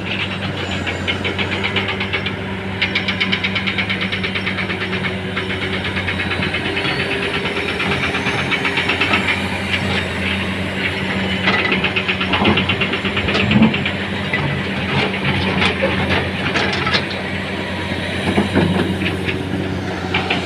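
Heavy vehicle engine running steadily with a fast, even clatter. Stones thud and clatter into the truck in several knocks from about halfway through to near the end.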